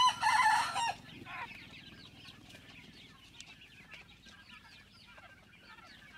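A chicken gives a loud call in the first second, followed by many faint, short, high chirps.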